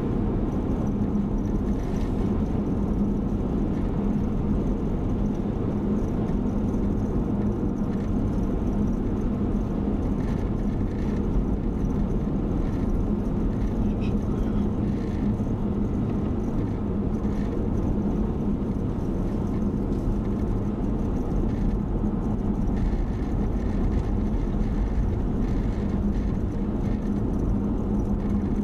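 Steady engine and tyre drone heard from inside a moving car's cabin, with a constant low hum and no change in speed or pitch.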